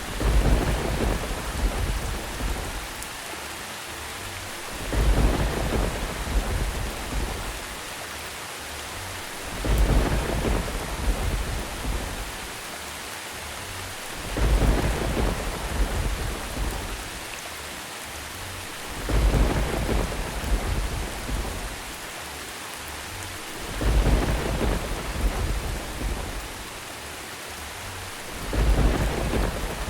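Steady rain with rumbles of thunder that swell and fade at even intervals, about every five seconds.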